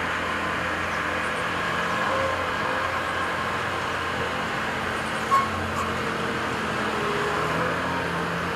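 Diesel engines of compact construction machines (mini excavator and skid steer) running steadily while loading a dump truck, with a brief sharp sound about five seconds in.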